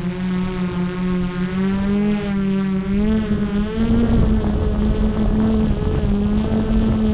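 DJI Mavic 3 Pro quadcopter drone's propellers running with a steady buzzing hum, its pitch rising a little about three to four seconds in as the motors speed up. A low rumble underneath grows louder in the second half.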